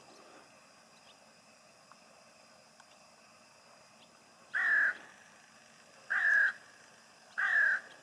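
A crow cawing three times, each caw short and harsh, about a second and a half apart.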